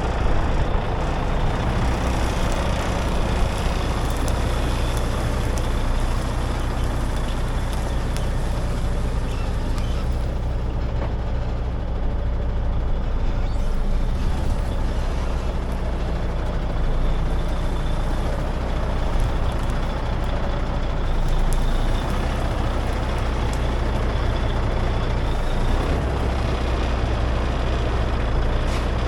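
Heavy diesel engine running steadily at a constant speed, a low, even hum with no change.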